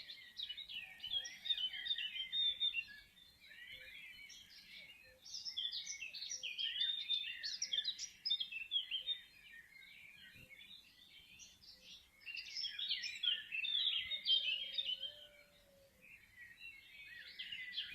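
Many songbirds singing at once: dense, overlapping chirps and trills that swell into loud bouts and ease off every few seconds.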